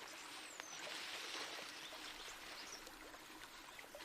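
Steady rushing of running water, with a faint falling bird whistle about half a second in.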